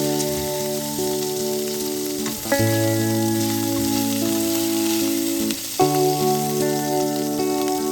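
Food sizzling as it fries in a pan, a steady hiss, under background music of sustained chords that change twice.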